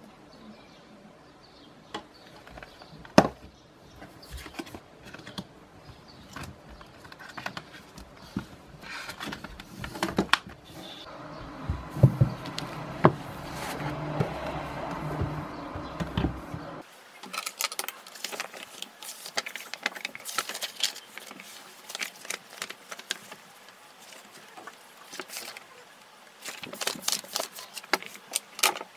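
A string of sharp clicks and knocks, as of small objects being handled and set down. A steadier noise runs beneath them in the first half and stops abruptly a little past the middle.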